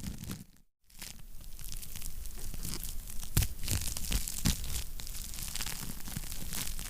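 Wood fire crackling in a fireplace: irregular sharp pops and snaps over a soft steady hiss. The sound cuts out completely for a moment just under a second in, then resumes.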